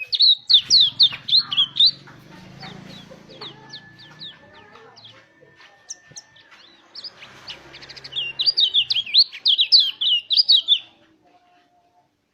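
White-eye (pleci) song: a fast run of loud, high, rapid chirps at the start and another from about seven and a half seconds in, with softer scattered chirps and a faint long steady whistle between them. The song stops about a second before the end.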